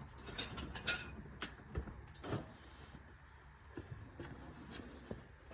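A scattered series of light clicks, knocks and rattles from objects being handled, about a dozen separate taps, the sharpest a little over two seconds in.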